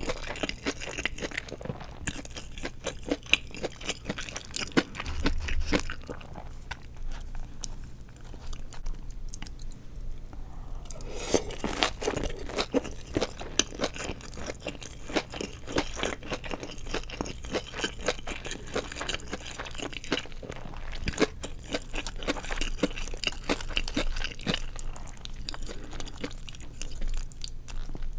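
A person chewing crisp deep-fried seaweed rolls filled with glass noodles: a dense run of sharp crunches, with a louder stretch of crunching about twelve seconds in.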